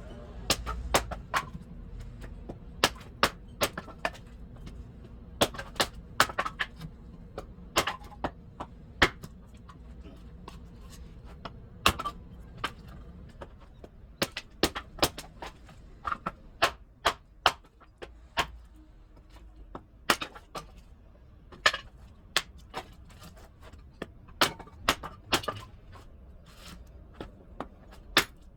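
Wood being chopped into small firewood pieces: a long run of sharp knocks and cracks at an uneven pace, roughly one or two a second.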